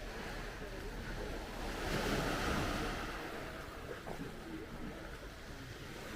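Black Sea waves washing onto the shore, one wave swelling up and breaking about two seconds in, with some wind on the microphone.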